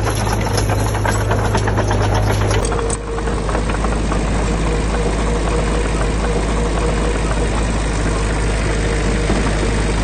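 Diesel engine of heavy construction machinery running steadily, with dense clattering. About a quarter of the way in the sound changes abruptly and then carries on steadily.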